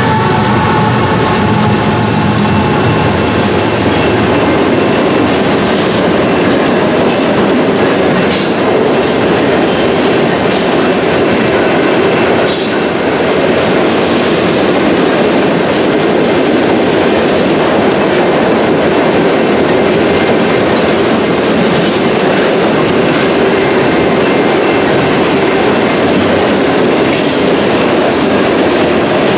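A train rolling steadily past a level crossing: the wheels rumble and clack over the rails, with brief high wheel squeals now and then. The tail of the locomotive's horn chord dies away in the first second.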